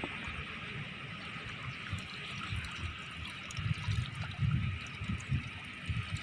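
River water trickling and flowing in a steady hiss. Irregular low rumbling bumps come in around the middle.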